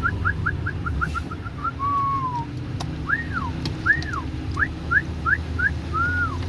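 A series of clear whistled notes: first a run of quick short chirps that ends in a falling slide, then several arching up-and-down notes and short rising notes. Underneath, an engine runs steadily.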